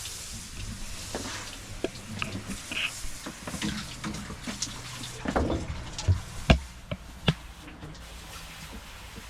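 Water running from a tap or hose, with scattered knocks and clicks from things being handled, the loudest about six and seven seconds in.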